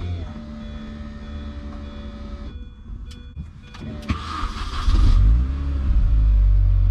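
Mini Cooper S R53's new in-tank electric fuel pump humming steadily as it primes, stopping after about two and a half seconds. A couple of clicks follow, then the supercharged 1.6-litre four-cylinder engine cranks, starts about four seconds in and keeps running, a sign the replacement pump is delivering fuel.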